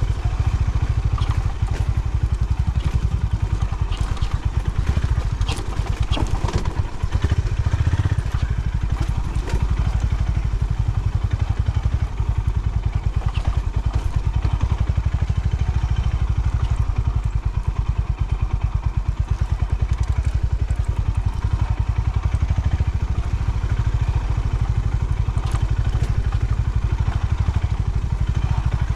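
Honda CB350 H'ness motorcycle's single-cylinder engine running at a steady, even beat, with scattered clatter and knocks between about four and nine seconds in.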